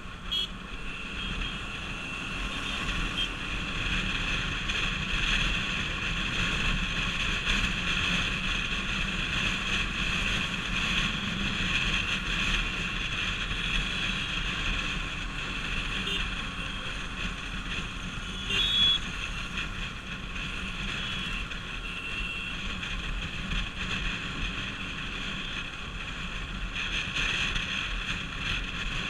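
Bajaj Pulsar RS200 motorcycle being ridden: a steady rush of wind and riding noise over the engine, with a brief louder sound about two-thirds of the way through.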